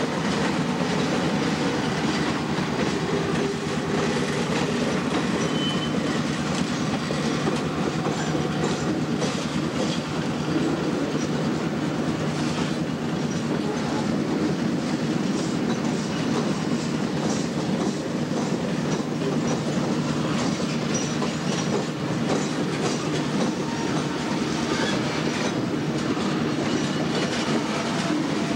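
Freight train of torpedo ('bottle') cars for molten steel rolling past close by: a steady rumble of wheels on rail, with repeated clicks as the wheels cross rail joints.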